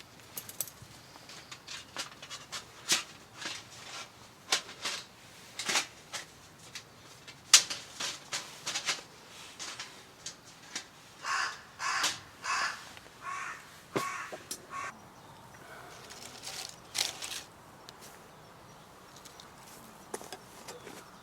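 A crow cawing, a run of about seven harsh calls in quick succession about halfway through. Before that come scattered sharp clicks and snaps.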